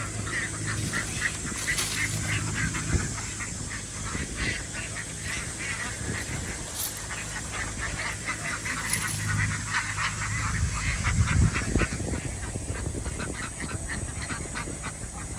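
A large flock of farmed ducks quacking together in a dense, continuous chatter, over a steady low hum.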